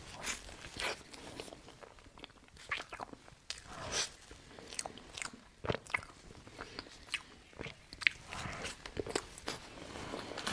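Close-miked chewing and biting of soft mocha cake, with irregular wet mouth clicks and smacks.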